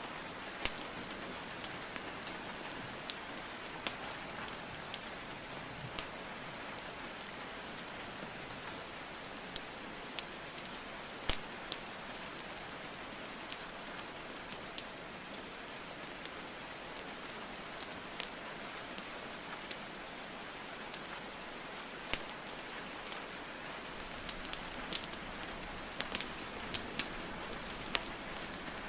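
Steady rain hiss with scattered sharp pops and crackles from burning wood logs in a fireplace. The pops come more often near the end.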